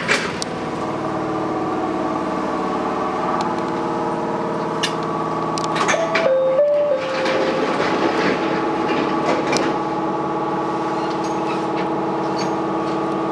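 Chichibu Railway 7500 series electric train running, heard from the cab: a steady hum made of several even tones, a short stepped tone about six seconds in and a few scattered clicks.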